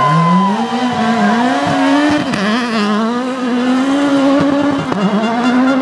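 Rally car engine under hard acceleration, its note climbing and dropping briefly at gear changes, twice.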